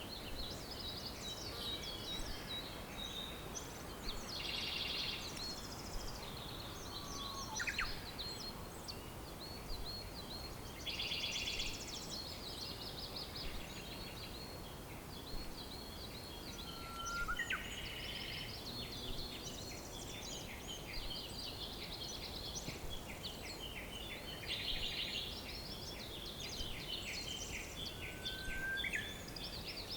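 Several birds singing over a steady background hiss: dense overlapping chirps and quick trills, with an occasional rising whistle a few times.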